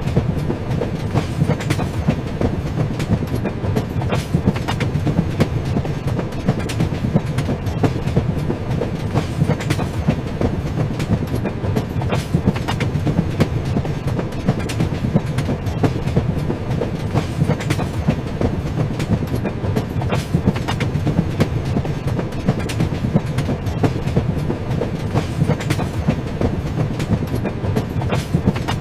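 Train running along the track: a steady rumble with the repeated clickety-clack of wheels passing over rail joints.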